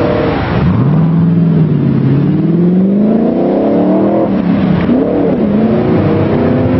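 Spyker C8 Laviolette's Audi 4.2-litre V8 accelerating, its note rising steadily for about three seconds, then falling abruptly about four seconds in before settling into a steadier note.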